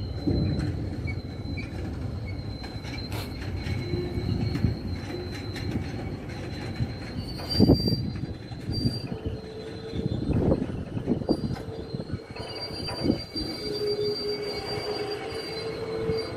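Double-stack container freight train rolling past close by: a steady rumble of wagon wheels on the rails, with thin, high wheel squeals held for several seconds at a time and a few heavy thumps, the loudest about eight seconds in.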